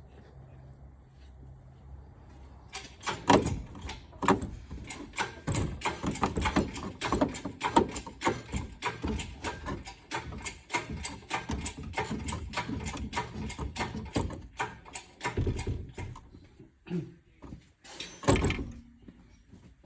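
Rapid, irregular metallic clicking and clanking from the engine-lifting gear and chain as the Dodge Charger's engine is pulled out, starting about two and a half seconds in, with a louder knock near the end.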